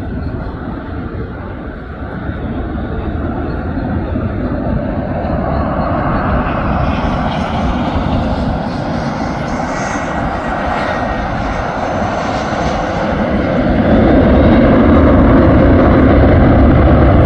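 Jet airliner's engines passing, a rushing roar that builds steadily and is loudest, with a deep rumble, over the last few seconds.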